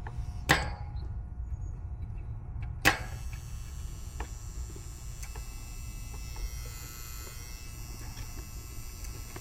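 Two sharp clicks about two and a half seconds apart over a steady low hum.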